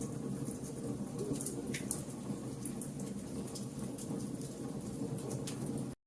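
Fire crackling: a steady low rumble with scattered sharp pops and ticks. The sound drops out for a split second near the end.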